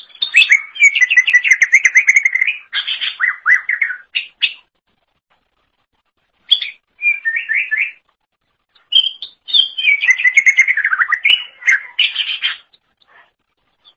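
Cucak ijo (green leafbird) singing: two long bursts of fast, varied chattering and warbling notes, split by a short phrase in the middle, with high chips over the top.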